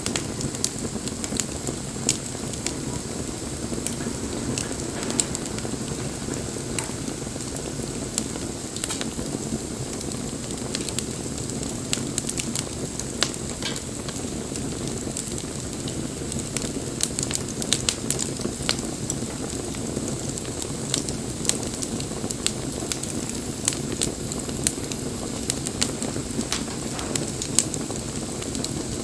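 Wood fire burning: irregular sharp crackles and pops over a steady rush of flame.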